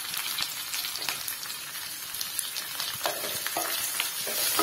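Tempering (tadka) sizzling in hot oil in a nonstick wok: whole spices, curry leaves and chopped green chillies frying steadily. A wooden spatula stirs them, scraping and tapping against the pan in frequent short clicks.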